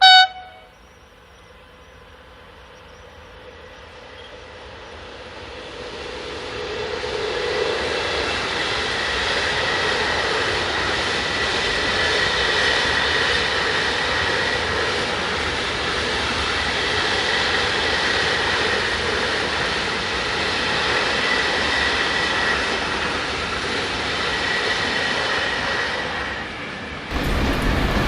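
Train passing: the noise builds over several seconds, then holds as a steady rumble with a faint whine for about twenty seconds. A brief loud tone sounds at the very start. Near the end the sound cuts off abruptly to something else.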